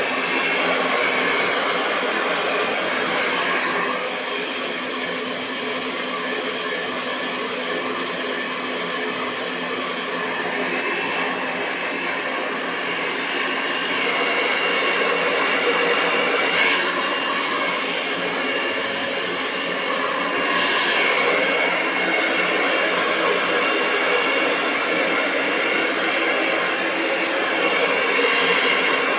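Hair dryer blowing continuously, a steady rush of air over its motor's whine, getting a little softer about four seconds in and louder again later on, as the dryer or its airflow shifts.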